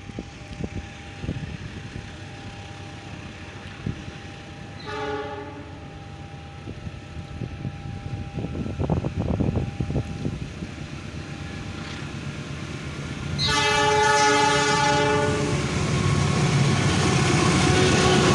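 CC 201 diesel locomotive sounding its multi-note horn as the train approaches: a short blast about five seconds in, then a long blast from about thirteen seconds, over the growing rumble of the train.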